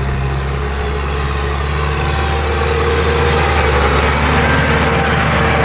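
Large tractor's diesel engine running steadily under load while pulling a plough through soil, growing slightly louder about two seconds in.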